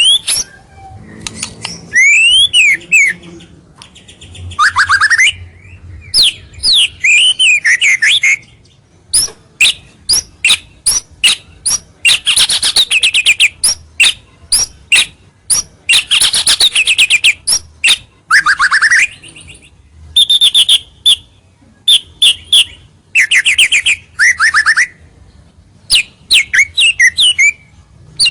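White-rumped shama (murai batu) singing a loud, varied song: gliding whistled phrases, quick series of sharp clicking notes and dense chattering bursts, with short pauses between phrases. This energetic 'gacor' territorial song is used as a lure to draw rival shamas in.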